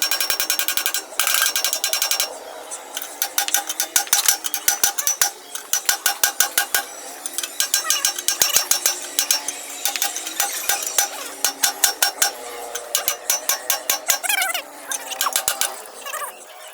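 Ratchet wrench clicking in repeated short bursts of rapid clicks as it is worked back and forth on a bolt.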